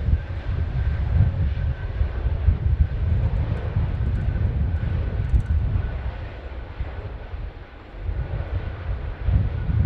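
Jet airliner engines rumbling steadily, with a faint high whine held on one note.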